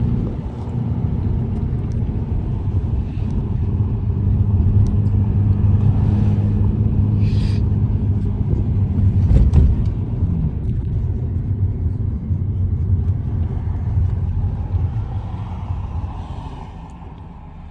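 Steady low rumble of a car heard from inside the cabin while driving, with a short knock about nine and a half seconds in; the rumble dies down near the end.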